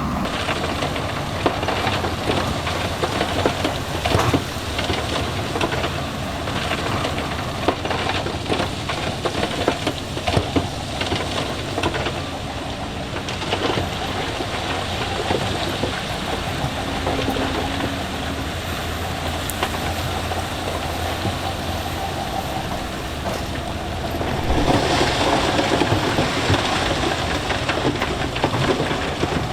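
Heavy diesel equipment running steadily under a dense rattle of loose stone tumbling and grinding, with scattered sharp knocks of rock; the rattle grows louder near the end.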